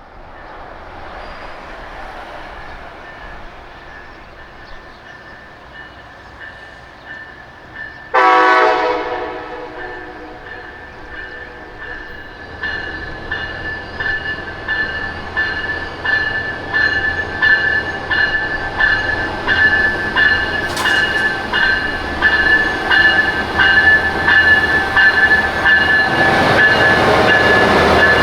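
Approaching Amtrak passenger train. Its locomotive horn sounds one short blast about eight seconds in, then fades. After that, an even rhythm of wheel clicks builds and the train grows steadily louder as it nears.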